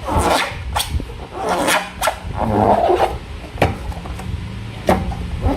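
Slime being squeezed and worked by hand: wet squelches and sharp clicks, with a louder squishing stretch about halfway through and a low steady hum underneath.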